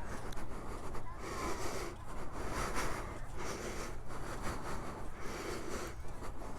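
Background chatter of a large crowd: many distant voices mixing into an uneven murmur that swells and fades.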